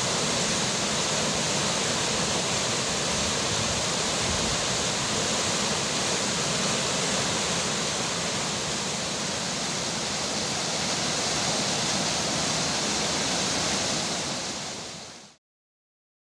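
Steady rush of flowing river water and falling rain, fading out and stopping near the end.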